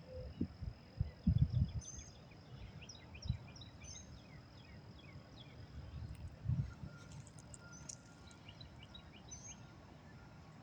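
Birds chirping: many short, quick calls over a steady high thin tone, with a few low thumps in the first two seconds and again near the middle.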